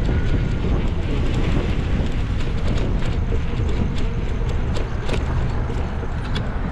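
Steady road and engine rumble of a car driving, with wind buffeting the microphone and scattered small clicks and rattles.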